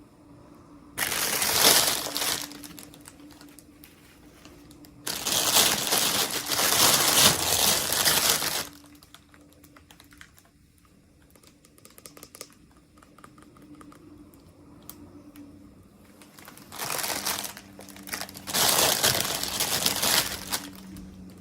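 Packaging being crinkled and handled while toys are unboxed, in four bouts of rustling, the longest about three and a half seconds.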